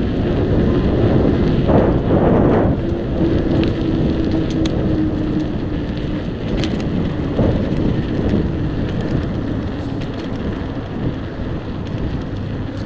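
Wind buffeting the microphone of a chest-mounted camera on a moving bicycle, a loud, rough rumble. A faint steady hum slowly drops in pitch a couple of seconds in.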